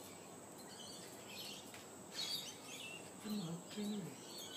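Small birds chirping on and off in the background, short high calls repeating throughout. About three seconds in, two brief low hums from a man's voice.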